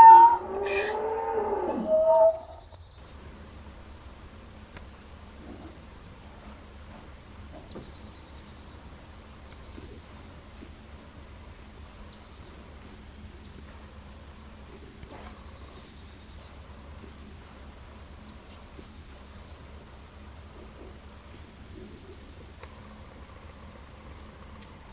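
A bird repeatedly sings short, high phrases of quick descending chirps every second or two over a steady low hum. It is preceded about two seconds in by a loud, drawn-out call that wavers and slides down in pitch.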